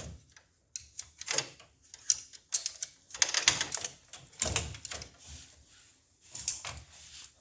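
Irregular bursts of sharp metallic taps and clicks as a pin is driven into a copier's main drive gear assembly.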